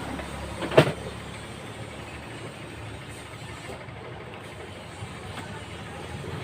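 A single sharp knock about a second in, from handling the opened electric fan, over a steady low rumble like background traffic.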